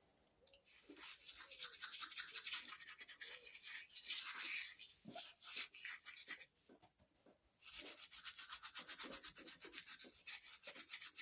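Quick back-and-forth scrubbing on a metal engine part, in two spells with a short pause about halfway. The part is being cleaned off to look for timing marks.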